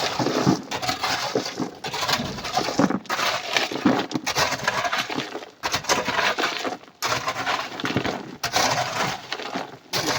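Loose rock and coral pieces clattering and crunching as they are loaded, a run of gritty rattling pours broken by a few short pauses.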